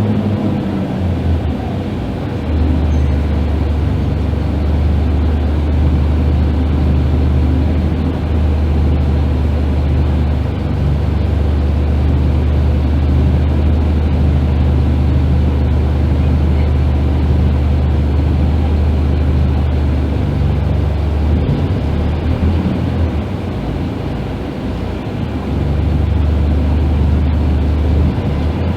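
Scania K310IB bus's diesel engine running with a steady low drone. It eases off briefly about two seconds in and again for a few seconds past the twenty-second mark, then picks back up.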